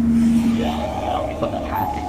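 Sawmill head saw and carriage cutting a board off a Southern pine log: a steady low hum gives way to a higher tone about halfway through.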